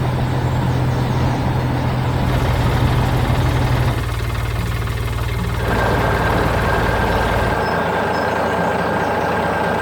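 Heavy machinery engine sound effect running steadily with a low rumble. The rumble shifts about halfway through, a steady higher whine joins it, and the deepest part drops away near the end.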